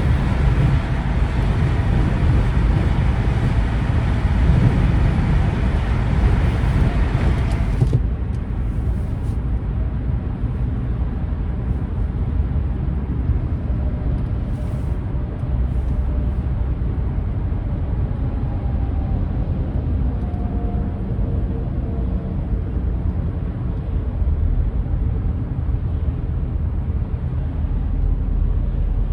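Vehicle engine and road noise in slow traffic: a steady low rumble with a broad hiss on top that cuts off suddenly about eight seconds in, leaving only the rumble.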